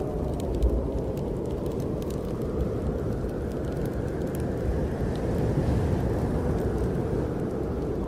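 Snowstorm wind blowing in a steady low rush that swells about halfway through, with scattered crackles from a wood fire.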